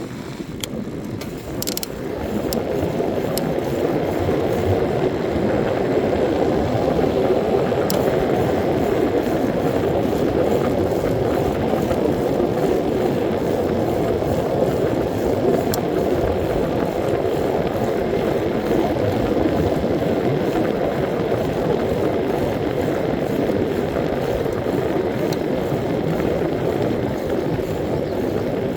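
A bicycle in motion: a steady rush of tyre and wind noise that builds over the first few seconds and then holds, with a few sharp mechanical clicks from the bike, most of them in the first seconds.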